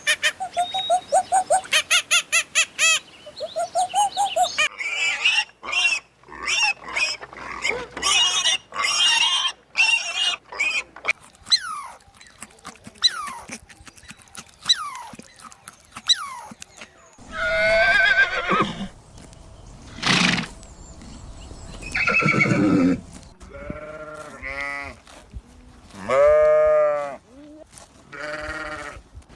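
A string of farm animal calls: quick high chirps and clicks through the first half, then a series of separate, louder, drawn-out pitched calls in the second half.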